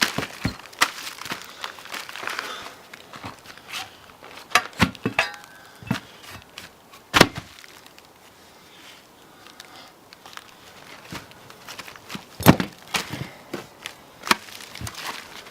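Irregular knocks and thuds, a dozen or so sharp impacts at uneven intervals, with a brief ringing tone about five seconds in.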